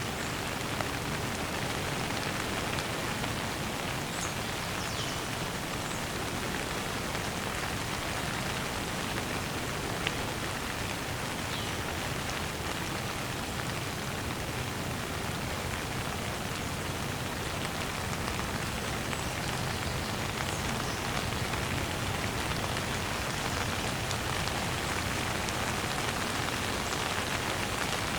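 Steady rain falling and pattering on surfaces, an even hiss, with a few faint high falling whistles now and then.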